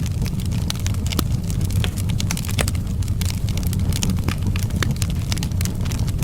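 Wood fire burning, with frequent sharp crackles and pops at irregular intervals over a steady low rumble.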